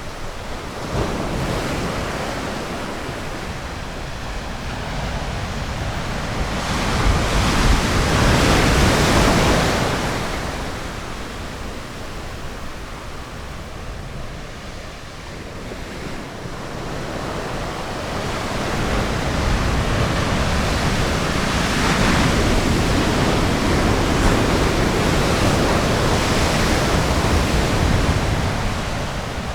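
Ocean surf washing onto a beach, a steady rush that swells with a breaking wave about seven to ten seconds in and again, longer, from about nineteen to twenty-eight seconds in.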